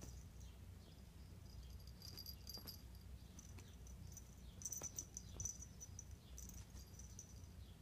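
Faint, scattered light clicks and ticks over a low steady hum: kittens' paws and claws pattering on a hard floor as they play, busiest a little past the middle.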